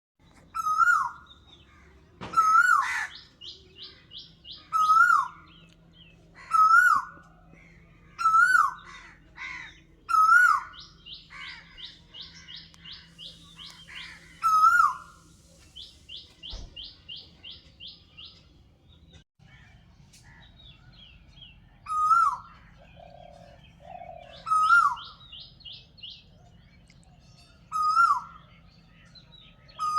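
Birds calling. One bird repeats a loud, short call that rises and then falls in pitch, about every two seconds, and pauses in the middle. A second, higher-pitched bird sings fast trilled runs between those calls.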